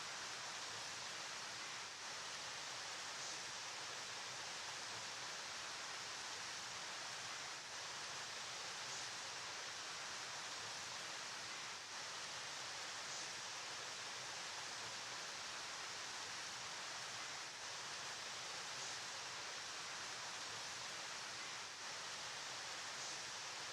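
River water flowing: a steady, unbroken rush of noise with no changes in character.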